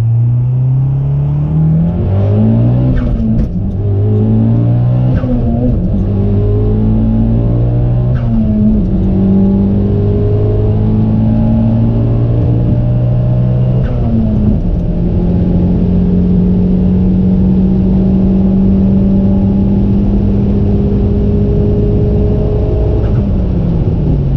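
Tuned Mitsubishi Lancer Evolution X's turbocharged four-cylinder heard from inside the cabin, pulling hard with its pitch climbing and dropping at each gear change. It then holds a steady note for several seconds before falling away near the end.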